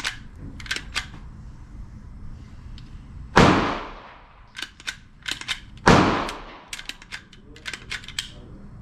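Two single shots from an AR-15 pistol running a CMMG .22 LR conversion kit, about two and a half seconds apart, each with a short echoing tail, with clusters of light metallic clicks from the gun's action between and after them. The kit is failing to cycle reliably: a spent casing is hanging up, short of the power to eject fully.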